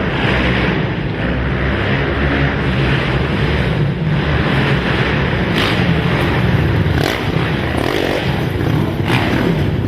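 Racing quad (ATV) engines running hard on a dirt track, a loud steady engine din with no break.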